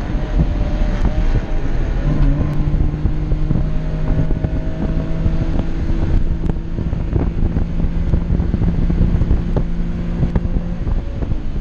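A kei car's small engine heard inside the cabin, running hard at high revs under racing load, with road noise and cabin rattles. The engine note holds steady for most of the time, then drops off near the end as the driver lifts.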